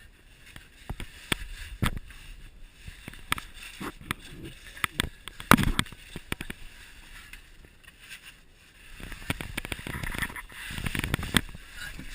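A person crawling through a tight cave squeeze: clothing and gear scrape and rustle against rock, with irregular knocks, one loud knock about halfway through, and a longer stretch of scraping near the end.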